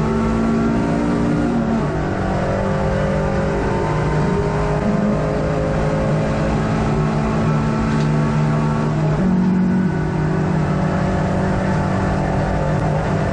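Hot hatch race car's engine running hard, heard from inside the cabin, its note holding steady for stretches and stepping in pitch several times, over constant road and wind noise.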